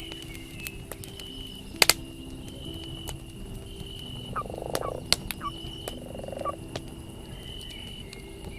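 Campfire crackling, with scattered sharp pops and one loud double pop about two seconds in. Two short, low croaking calls come near the middle, over soft background music with held low notes and a repeating high tone.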